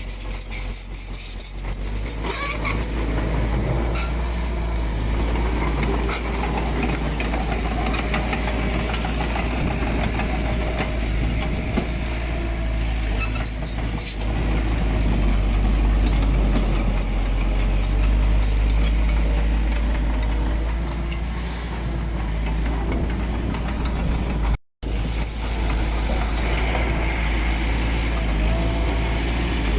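Heavy diesel earthmoving machinery running steadily with a deep rumble and scattered metallic clanks. The sound cuts out for an instant about three-quarters of the way through.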